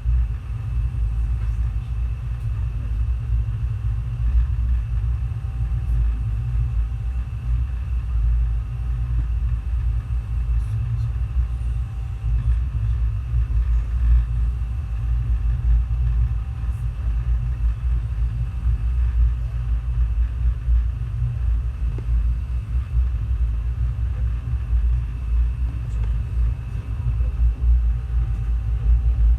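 Passenger train running, heard as a steady low rumble with faint steady tones above it.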